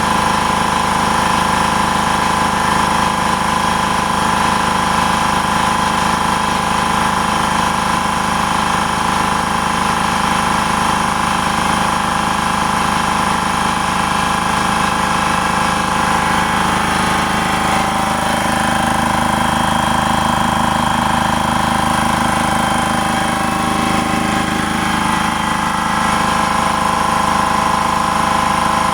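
Klutch 29-gallon electric air compressor running steadily, its motor and pump refilling the tank from about 150 toward 175 psi. Its pitch wavers for several seconds past the middle.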